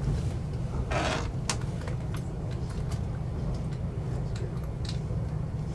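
Steady low rumble of a moving passenger train heard from inside the carriage, with a brief swish about a second in and a few faint clicks.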